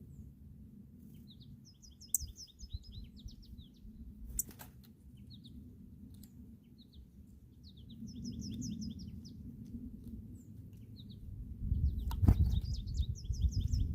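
Field sparrow singing three song phrases, each a quick series of short down-slurred whistled notes. Under them runs a low rumble that grows louder near the end, with two sharp knocks.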